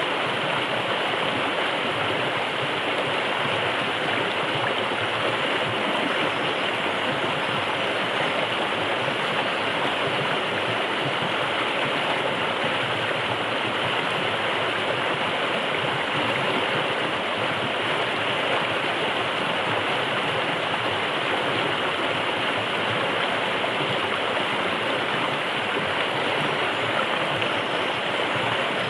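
A forest river flowing steadily: a constant rushing of water with no breaks or changes.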